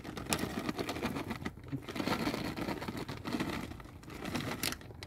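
A plastic bag of shredded cheese rustling as it is shaken, with the shreds falling onto the potatoes in the skillet: a dense, irregular run of small clicks and crinkles.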